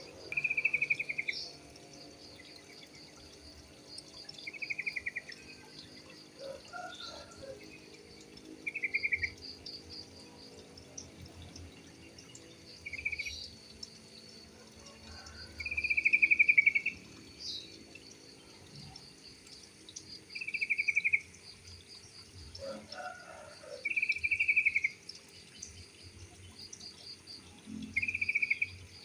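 Yellow-vented bulbul calling: short, rapid chattering phrases, about eight of them, repeated every three to four seconds, over a fainter, fast, high-pitched pulsing chirp that goes on throughout.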